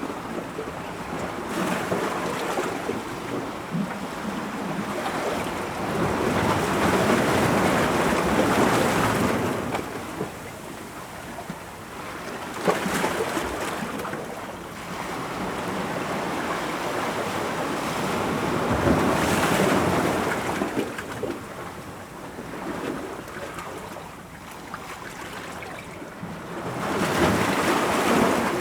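Ocean waves breaking against rocks, the surf rising and falling in long surges every several seconds, with short sharp splashes at some crests.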